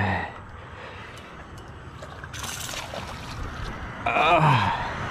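A hooked tarpon splashing at the surface of the water, with one brief, sharp splash about two and a half seconds in, while the angler cries out at the start and near the end.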